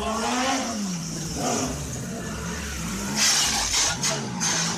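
Vehicle engine revving up and dropping back within the first second, then running on, with a few loud noisy bursts about three to four seconds in.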